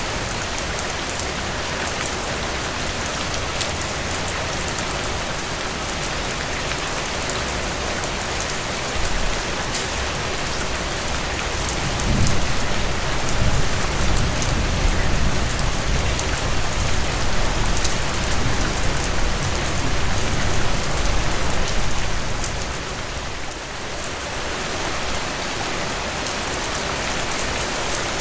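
Steady rainfall: an even wash of rain with individual drops ticking through it. Midway it swells louder with a deeper low rumble for about ten seconds, then eases back to the steady patter.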